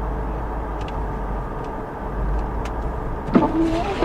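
Steady low rumble of a car heard from inside the cabin while driving, with a few faint ticks. About three seconds in comes a short pitched sound.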